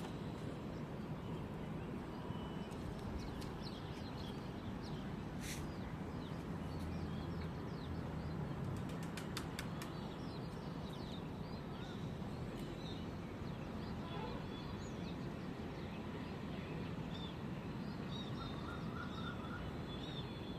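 Small birds chirping, many short calls all through, over a steady low background noise, with a few faint clicks.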